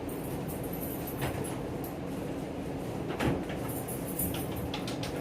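Steady low rumble and hum inside a moving passenger train carriage. Several short knocks and clicks come over it, one about a second in, a louder one after about three seconds, and a few more near the end.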